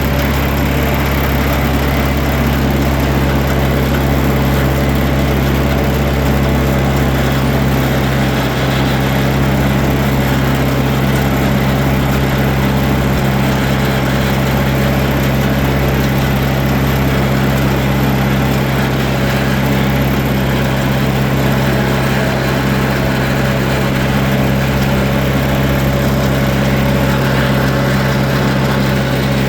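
Tractor engine running steadily at a constant speed, a loud, even hum that does not rise or fall.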